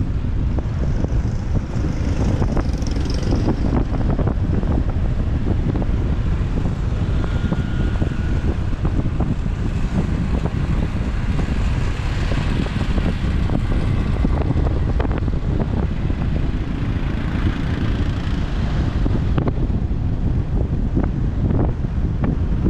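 Wind buffeting the microphone of a moving motorbike, a steady low rumble over road and traffic noise.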